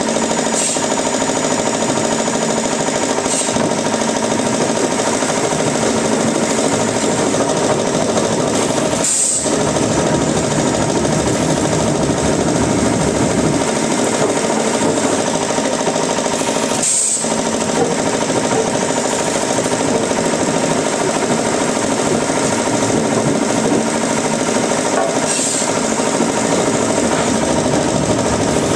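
Wood-cutting machinery running with a steady, loud mechanical drone, broken by short sharp breaks about 9, 17 and 25 seconds in.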